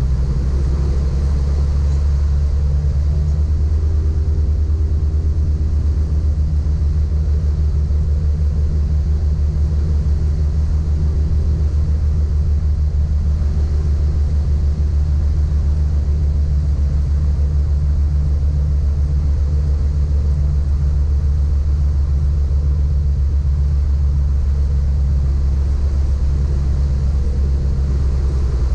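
Piper Apache's twin piston engines droning steadily at low power on final approach and landing, a deep even rumble with no marked change in pitch.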